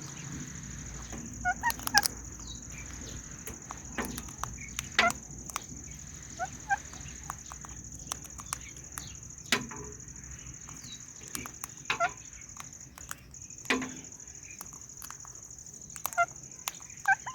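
Indian ringneck and Alexandrine parrots feeding on guava: short chirping calls every few seconds among scattered sharp clicks.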